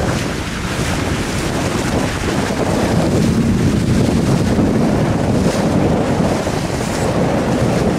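Steady wind rush on the microphone aboard a moving boat, mixed with the rush of water along the hull.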